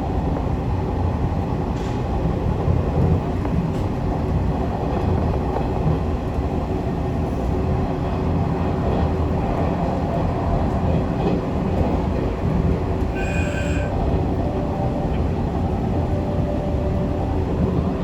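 Passenger train running at speed, a steady rumble of wheels on rail, as it makes up lost time at about 110 km/h. A brief high-pitched tone sounds once, about thirteen seconds in.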